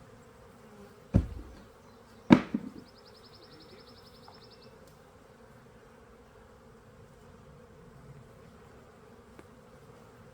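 Honey bees of an opened hive colony humming steadily, with two loud knocks about a second apart near the start.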